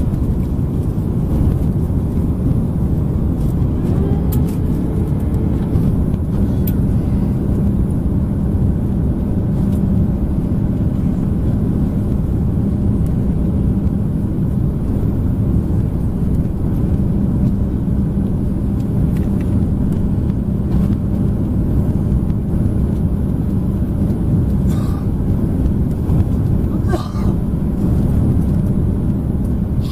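Steady cabin noise inside an Airbus A330-300 in flight: engine and airflow rumble from a window seat, with a steady hum that comes in about six seconds in.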